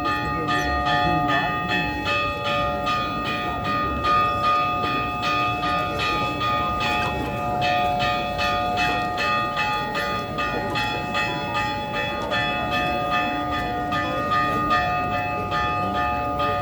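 Church bells ringing in rapid, continuous strokes, about four a second, with the tones ringing on between strokes.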